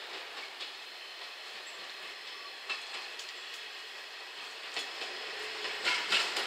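JR Shikoku 1000-series diesel railcar running slowly over curved track and points, its wheels clicking at irregular intervals over a steady rolling noise. A low hum joins near the end, and it grows louder as the train comes nearer.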